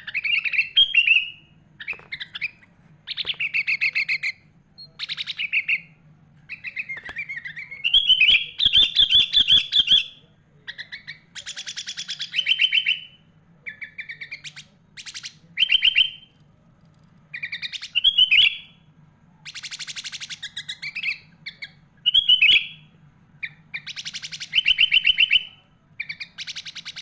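Sooty-headed bulbul (kutilang) singing in bursts of chirpy phrases and fast rattling trills, one every second or two with short pauses between. The song is rich in phrases copied from other birds.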